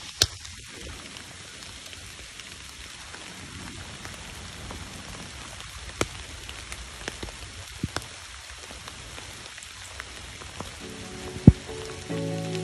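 Steady rain falling on grass and leaves, with a few sharp taps of drops scattered through it. Background music fades in near the end.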